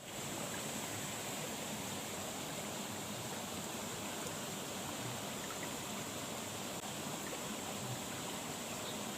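Water flowing steadily in a drainage ditch, a constant rushing hiss with a steady high-pitched note above it.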